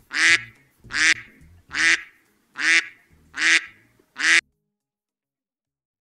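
Duck quacking: six loud quacks in a steady series, one about every 0.8 seconds, stopping about four and a half seconds in.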